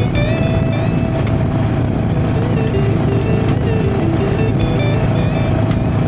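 Harley-Davidson Sportster's air-cooled V-twin running steadily while riding, with a constant low rumble and road noise, under background music carrying a stepping melody.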